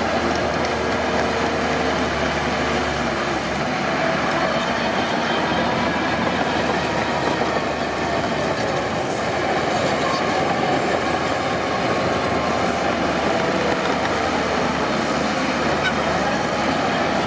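Crawler bulldozer working steadily: diesel engine running with its steel tracks clattering.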